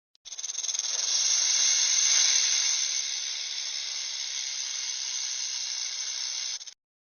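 A long, unbroken animal hiss that swells to its loudest about two seconds in, then holds steady until it cuts off abruptly near the end.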